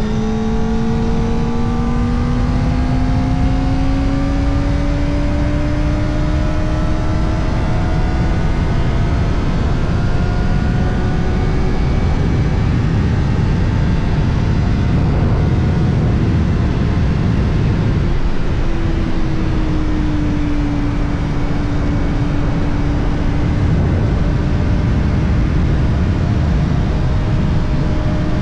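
Kawasaki Ninja ZX-4RR's inline-four engine running through an Arrow titanium exhaust with its dB killer fitted, under way on the road. The engine note climbs slowly for about the first ten seconds. Later it settles lower and holds steady, with heavy wind and road rush underneath throughout.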